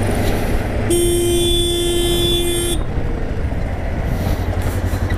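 A vehicle horn blares one steady held note for about two seconds, starting about a second in, over the continuous running and road noise of a motorcycle in traffic.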